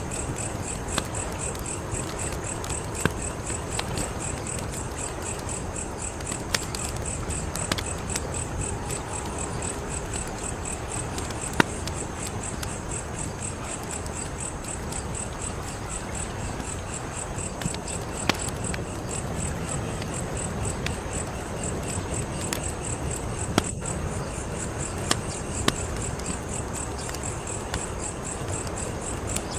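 Wood fire crackling steadily, with scattered sharp pops, the loudest near the middle. Behind it, a high-pitched, evenly pulsing trill of crickets.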